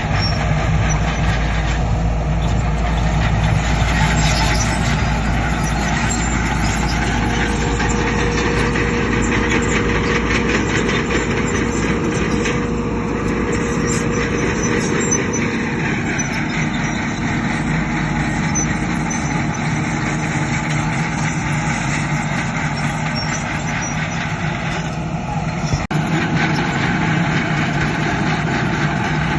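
Diesel engines of heavy earth-moving machinery running steadily, with a continuous low engine hum and a steady whine that holds for several seconds in the middle.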